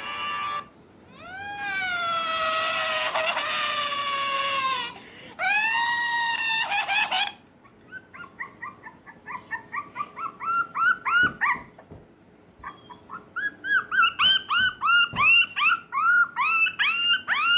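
Dog howling in two long drawn-out wails that fall in pitch, then whimpering in quick high yelps, several a second.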